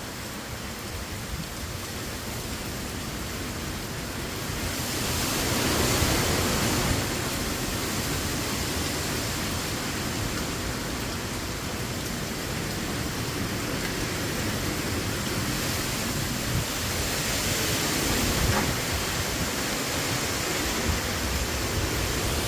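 Heavy rain pouring down, a steady hiss that grows louder about five seconds in.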